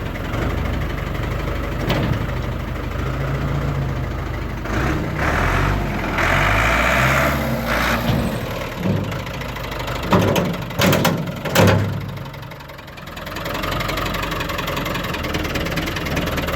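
Truck engine idling steadily, with a hiss for a couple of seconds midway and a few sharp knocks a little later.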